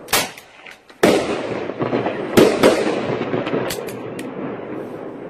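Aerial fireworks bursting: four sharp bangs in the first three seconds, each trailing off in a long fading tail, with smaller pops and crackles between.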